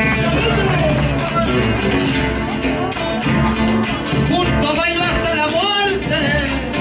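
Live Argentine zamba played on guitar, an instrumental passage between sung verses.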